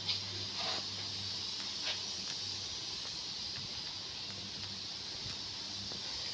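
Bobcat 322 mini excavator's engine idling with a low steady hum under a constant hiss, and a few light knocks in the first two seconds.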